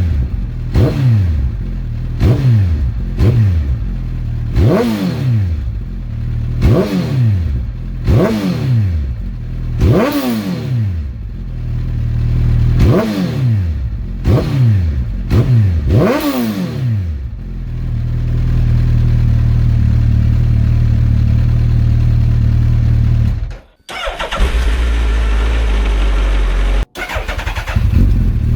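2008 Suzuki Hayabusa's inline-four engine, breathing through a full Akrapovic 4-1 exhaust, revved in about a dozen quick blips, each rising sharply and falling back. It is then held steady at raised revs. Near the end the sound cuts out briefly twice, and the tone changes in between.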